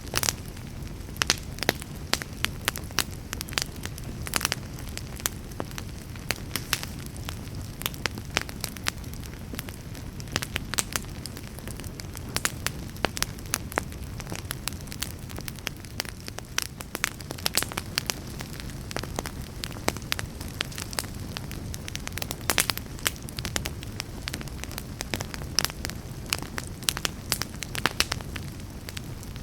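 Wood fire burning in a fireplace: a low steady rumble of the flames with frequent sharp, irregular crackles and pops.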